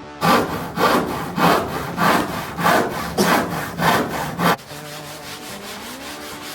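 A hand saw cutting through wood in about eight even back-and-forth strokes, roughly one every 0.6 s. The sawing stops about four and a half seconds in.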